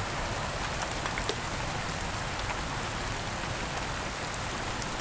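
Steady heavy rain falling on a surface, an even hiss with scattered individual drop ticks; no thunder stands out.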